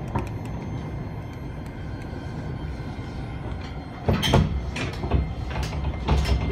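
Inside an E231 series commuter train: a steady low rumble, then from about four seconds in a run of loud knocks and clatters.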